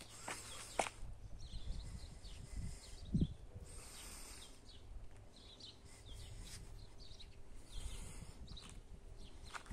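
Faint outdoor background noise with scattered short bird chirps and a few clicks and knocks, the loudest a dull thump about three seconds in.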